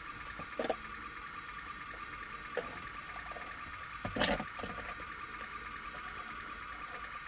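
Small electric drive motor and gearbox of a mini radio-control toy tank running with a steady high whine, with a few clicks and a louder clatter about four seconds in.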